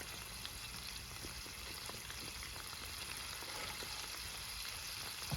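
Food sizzling in oil in a pan over a campfire: a steady hiss with small scattered pops.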